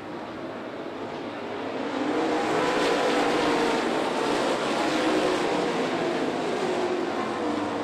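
Pack of dirt late model race cars running on the track, several engines at full throttle overlapping, growing louder about two seconds in as the field comes past.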